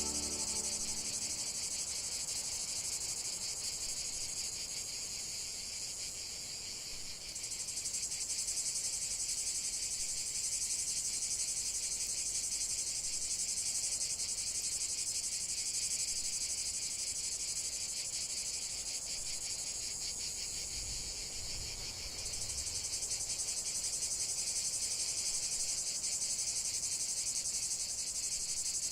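Dense chorus of crickets chirping steadily in a high, fast-pulsing trill.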